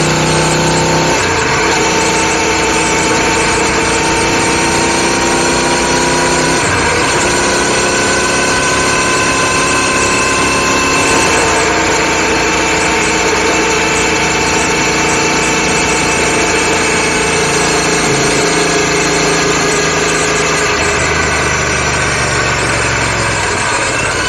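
Royal Enfield Continental GT650's 648 cc parallel-twin engine running under way through stainless-steel exhaust cans, picked up close by a microphone under the side panel. Its pitch shifts sharply about a second in and again near seven seconds, and otherwise drifts slowly.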